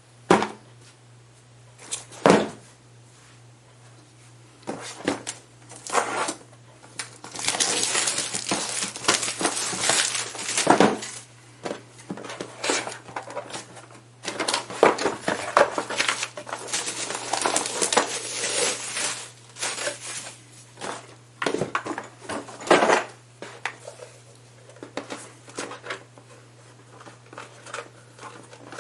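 Cardboard box and plastic packaging being handled, crinkled and torn open, with scattered knocks and clicks as pieces are set down. Two longer spells of rustling and crinkling, and a faint steady low hum underneath.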